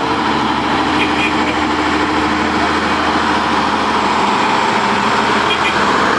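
A historic truck's engine running steadily and loudly.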